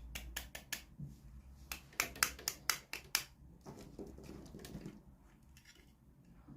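Hands unboxing small plastic toys: a quick run of sharp clicks and taps, then a stretch of softer rustling of packaging.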